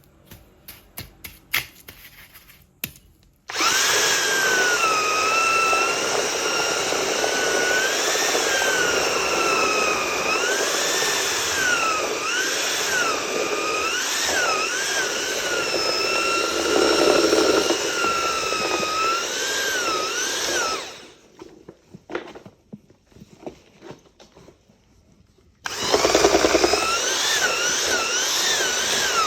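A handheld electric power tool runs under load, its motor whine wavering up and down in pitch, with light clicking before it starts. It stops for a few seconds and then starts up again near the end.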